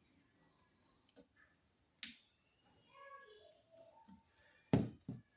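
A few scattered clicks and taps as a wall receptacle and its wires are handled, with a sharp click about two seconds in and the loudest one near the end.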